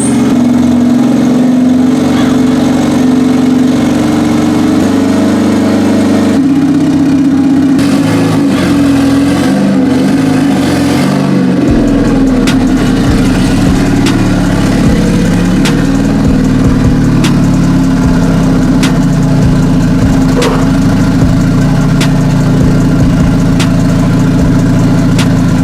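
Honda Civic's engine idling steadily as it warms up in cold weather, its idle note shifting slightly a couple of times.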